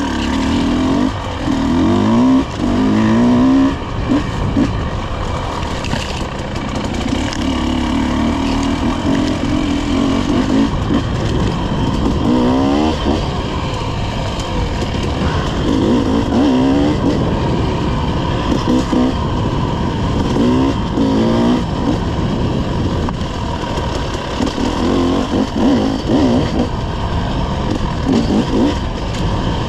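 Dirt bike engine riding a trail, revving up and falling back again and again as the rider works the throttle, with wind and knocks from the rough ground.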